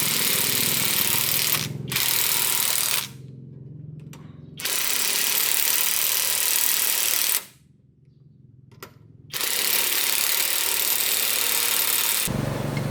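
Loud hissing in four bursts of one to three seconds each, with short pauses between them, over a low motor hum that fades out about a third of the way through.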